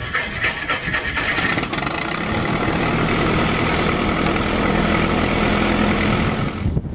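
Small propeller plane's piston engine running steadily, growing louder over the first few seconds, then cutting off suddenly near the end.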